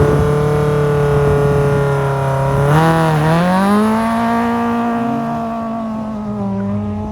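Rally car engine pulling away under hard acceleration, with a quick gear change about three seconds in, then holding a steady higher note as it draws away and slowly fades.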